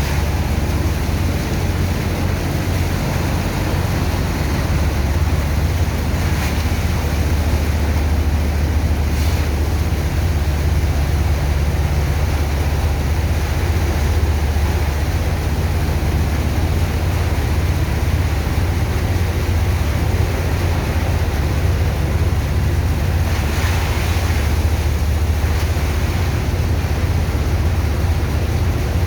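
Sand dredger's pump machinery running steadily: a loud, constant low drone under a rushing noise of water.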